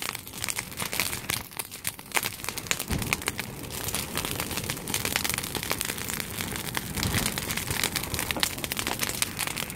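Bonfire burning, crackling and popping with many irregular sharp snaps, with two short low rumbles about three and seven seconds in.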